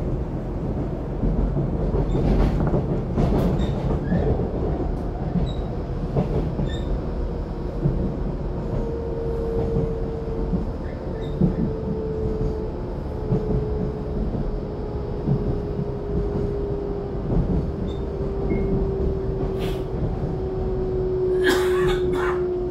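Interior ride noise of an EMU700-series electric local train: the steady rumble of wheels on rail, with a motor whine that sets in about nine seconds in and slowly falls in pitch, and a few sharp clicks near the start and near the end.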